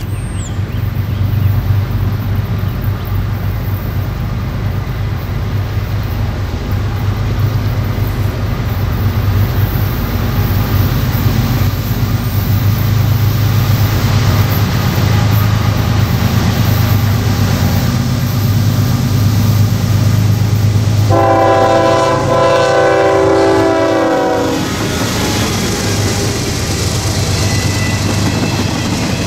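A diesel freight train approaching and passing, with a steady low locomotive engine rumble. Near the three-quarter mark the locomotive's horn sounds one long blast of about three seconds. After that the freight cars roll past with a rushing rumble and wheel clatter.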